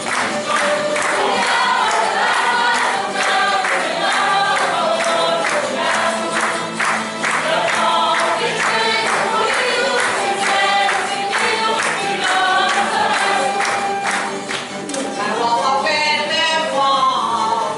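Group of voices singing a song together over a steady beat of evenly spaced strokes.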